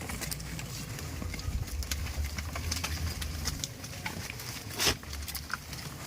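Goats moving about: scattered light clicks and knocks over a low rumble, with one louder, short sound about five seconds in.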